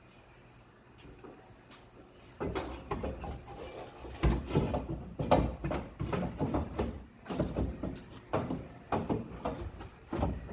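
Hand-tool work on the car's exhaust manifold: irregular knocks, clanks and scraping clatter. It starts about two seconds in, after a quiet stretch.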